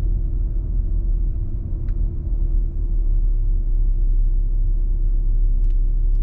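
A car on the move, heard from inside the cabin: a steady low rumble of road and engine noise with a constant hum, and a couple of faint clicks.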